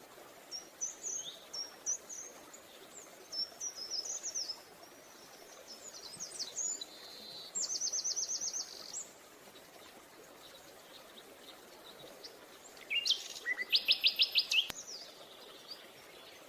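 Green-headed tanager calling: thin, high chirps for about nine seconds that end in a fast run of notes. After a pause comes a louder, rapid series of about eight notes near the end.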